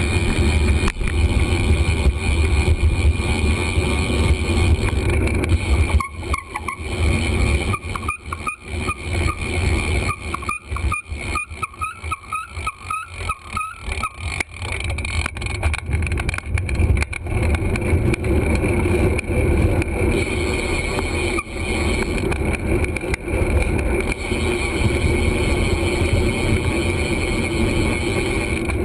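Wind rumbling over the microphone of a GoPro carried on a moving bicycle, with road noise. From about six seconds in the rumble breaks up and comes in choppy gusts for several seconds, then settles back into a steady rush.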